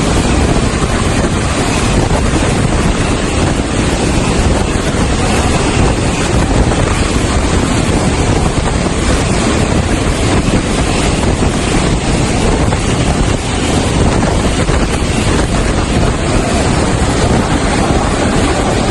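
Steady, loud rushing wind noise on the microphone, with no clear tone or rhythm.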